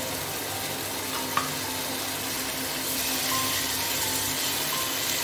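Onion-and-spice masala sizzling steadily in a nonstick wok after a splash of water was added to keep it from burning, with a spatula stirring through it. The sizzle grows a little stronger about three seconds in, and there is one short sharp knock a little over a second in.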